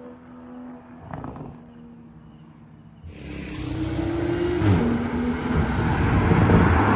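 Straight-piped exhaust of a BMW M340i's turbocharged inline-six running quietly, with a short blip about a second in. About three seconds in it opens up into loud acceleration, the pitch rising, dropping at a gear change about a second and a half later, then staying loud.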